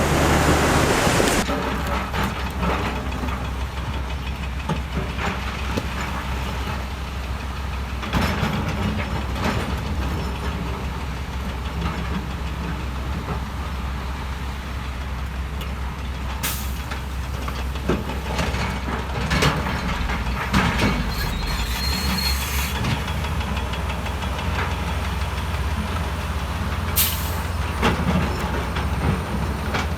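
Heavy diesel construction machinery running steadily with a low drone, with a loud rush of noise in the first second or so and scattered sharp clanks, like metal and stone knocking, through the rest.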